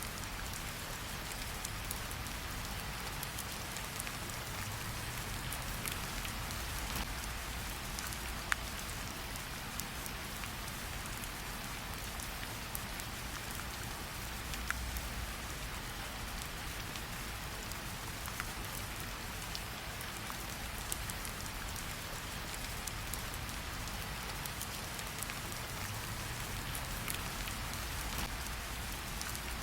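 Steady rain falling, with a few sharp pops scattered through it. The loudest pop comes about eight and a half seconds in.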